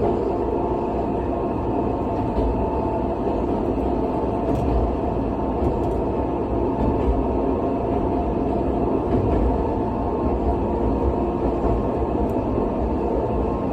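Nagano Electric Railway electric train running steadily along the line, heard from inside the carriage: an even rumble of wheels on rail with a faint hum and an occasional light click.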